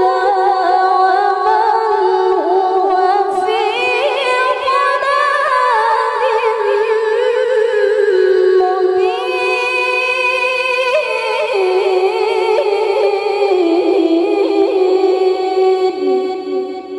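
Woman reciting the Quran in melodic tilawah style, drawing out one long ornamented phrase with no break. Her voice climbs higher over the first few seconds, then steps gradually down and fades near the end as the passage closes.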